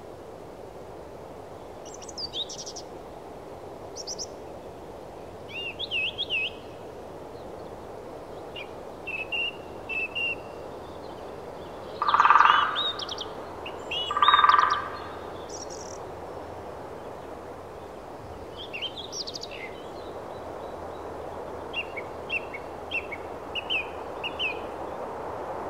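Birds chirping and calling in short bursts over a steady background hiss, with two louder calls near the middle.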